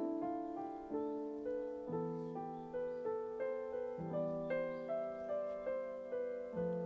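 Background piano music: a gentle melody of single notes struck about twice a second, each ringing and fading.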